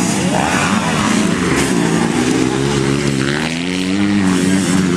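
Motocross dirt bike engines revving, their pitch rising and falling repeatedly as the bikes ride the track.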